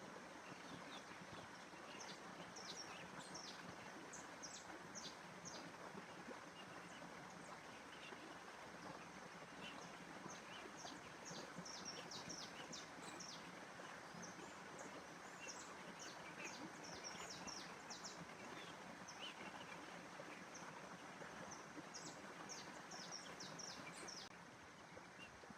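Small birds chirping in short, high notes that come in bouts, over a faint steady background rush of outdoor noise.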